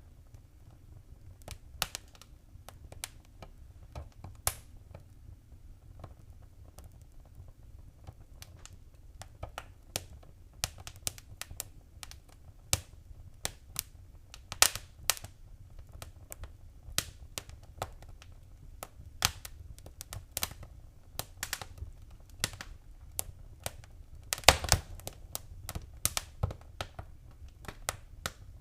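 Wood fire crackling in a fireplace: irregular sharp pops and snaps over a low steady rumble, with a burst of louder pops late on.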